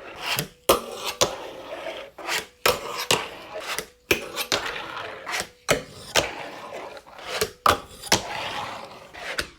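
Fingerboard fitted with Deli Decks trucks being skated: a run of sharp wooden clacks from tail pops and landings, about two a second, with wheels rolling and scraping between them.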